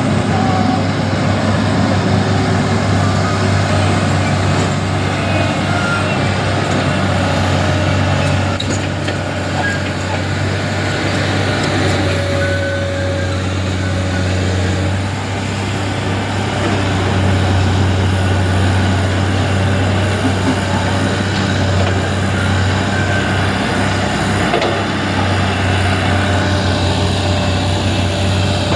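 Heavy road traffic with trucks: a steady low engine rumble, with a few brief high squeals.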